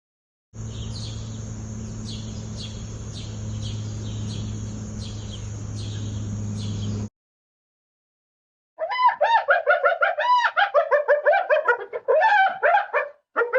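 Two separate animal recordings. First, regular short chirps about twice a second over a steady low hum and a high steady tone. Then, after a gap, a fast, loud run of chirping calls that rise and fall in pitch, about ten notes a second.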